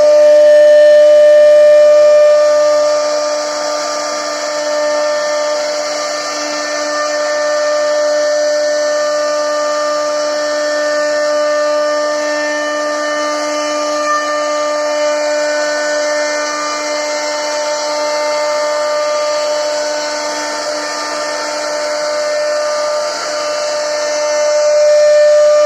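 CNC router spindle running at a steady high-pitched whine while its bit carves a wooden board, with a constant hiss of cutting over it.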